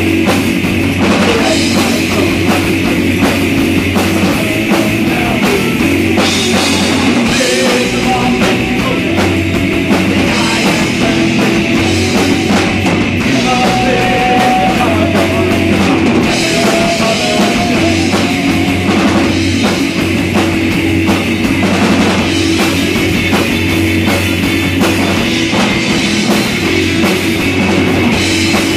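Rock band playing a loud, heavy song: a pounding drum kit and distorted electric guitars, with a wavering lead line over them.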